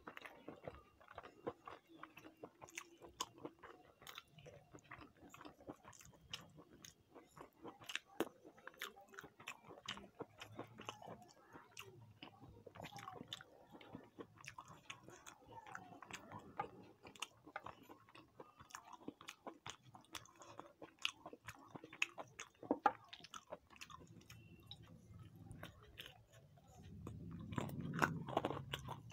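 A person chewing and eating a meal of fried rice and chicken curry: a steady run of small, irregular mouth clicks and crunches, with a louder, fuller stretch near the end.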